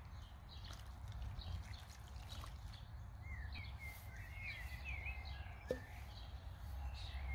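Birds chirping, with a run of quick twittering calls between about three and five and a half seconds in, over a steady low rumble.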